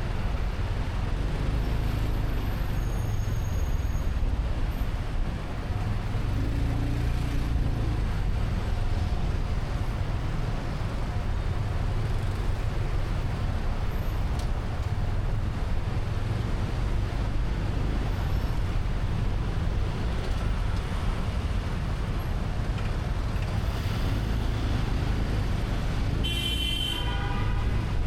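Steady engine and road rumble from a motorcycle riding through city traffic. Near the end a vehicle horn sounds briefly.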